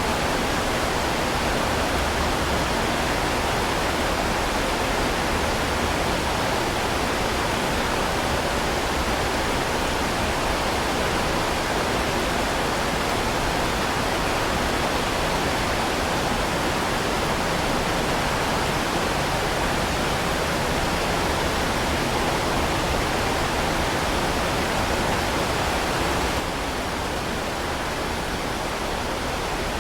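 Heavy rain falling steadily, a dense even hiss with no single drops standing out; it drops slightly in level about 26 seconds in.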